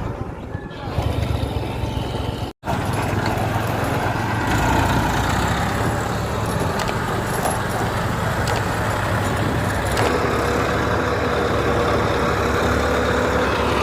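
Diesel engines of heavy earthmoving machinery, a backhoe loader and tractors, running steadily. The sound breaks off for an instant about two and a half seconds in.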